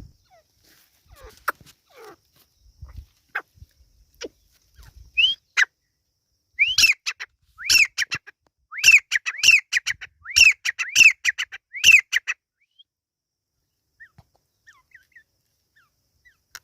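A teetar (francolin) calling: a run of about nine loud, harsh arched notes, roughly two a second. Before it come a few clicks and short chirps.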